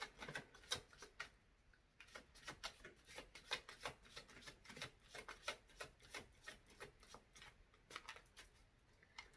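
Faint shuffling of a deck of angel oracle cards by hand: a rapid run of light card flicks and clicks, several a second, with a short pause a little over a second in.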